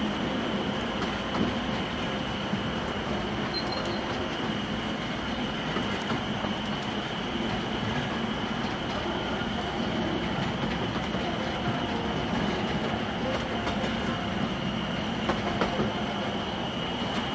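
Narrow-gauge forest railway train running steadily, heard from the passenger car: a continuous rumble of wheels on the track with scattered clicks and a steady high ringing tone.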